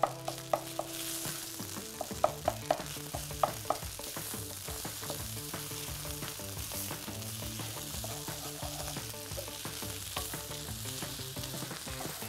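Fried rice sizzling in a hot pan as it is stirred, with the eggs being mixed through it. A string of sharp knocks against the pan comes in the first three and a half seconds.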